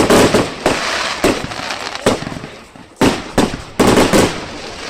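A run of firework explosions, one sharp bang after another every half second or so, each followed by a rolling rumble, with a quick cluster of bangs shortly before the end.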